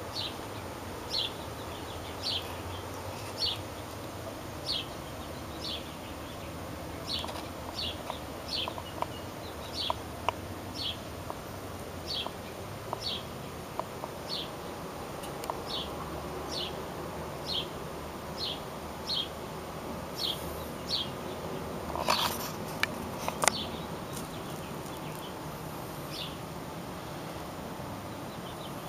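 A small bird chirping over and over, short high chirps about one a second over a steady low hum. A few sharp clicks come about three-quarters of the way through.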